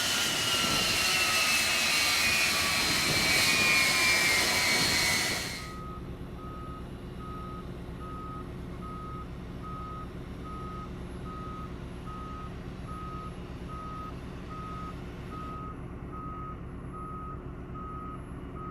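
Jet engine noise with two falling whines for about five seconds, then it cuts off suddenly. What follows is a quieter low hum with a steady electronic beep repeating about twice a second, like a ground vehicle's reversing alarm.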